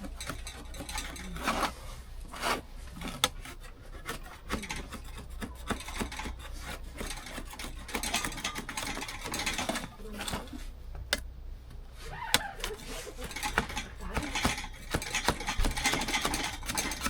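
Scraping and rubbing handling sounds with many scattered clicks and light knocks.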